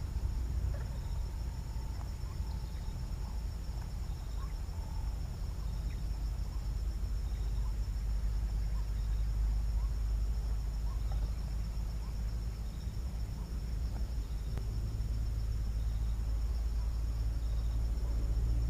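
Steady, high-pitched drone of crickets or other insects chirring together, with faint short pips repeating about once a second, over a constant low rumble.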